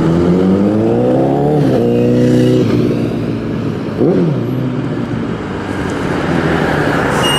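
Fire engine's diesel engine pulling away under load, its pitch rising for about a second and a half, holding, then dropping as the transmission shifts up. About four seconds in there is a short sweep of pitch up and back down.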